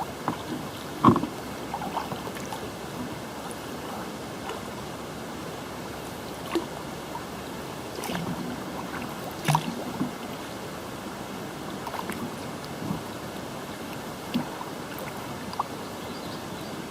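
Kayak paddling: irregular splashes and sharp knocks from the paddle over a steady hiss of water and wind. The loudest knock comes about a second in.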